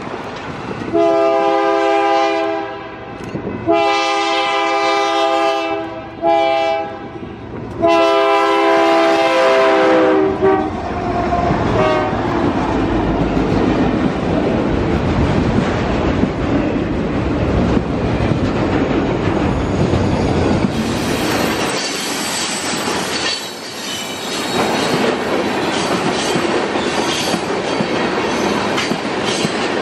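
Freight train locomotive's chime air horn sounding the grade-crossing signal: two long blasts, a short one and a final long one, each a chord of several notes. Then the freight cars roll past in a steady rumble, with wheels clicking over rail joints and some high wheel squeal in the later part.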